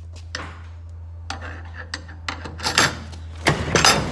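Handling noise: a series of sharp clicks and clattering knocks of hard objects, loudest in a cluster near the end, over a steady low hum.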